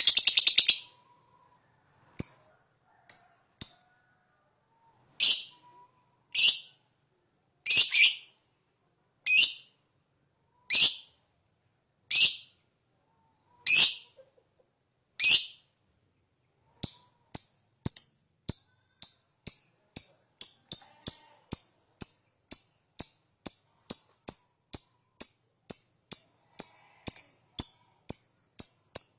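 Lovebird calling: a shrill chattering trill ends about a second in. Then come separate sharp calls about one and a half seconds apart, a short pause, and a fast run of short, high ticking chips at about three a second.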